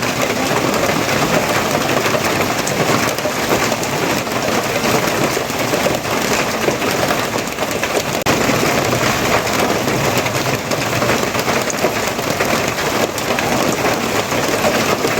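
Steady heavy rain, a dense, even hiss of drops, with a brief dip in level about eight seconds in.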